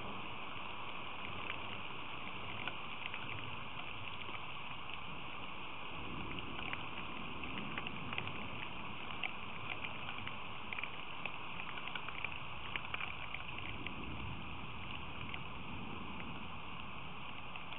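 Steady rain falling, with scattered sharp ticks of drops striking close to the microphone.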